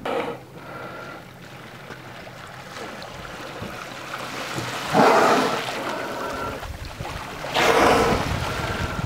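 Two orca blows, breathy whooshes of exhalation as a killer whale surfaces, about two and a half seconds apart and louder than anything else. A low wind rumble on the microphone builds in the second half.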